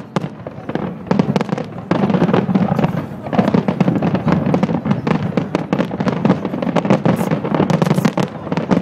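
Aerial fireworks display: a continuous rapid barrage of shell bursts and crackling, thinner for the first couple of seconds and then dense.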